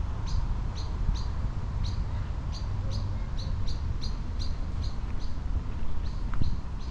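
A bird chirping over and over, short high chirps about three a second, over a steady low rumble.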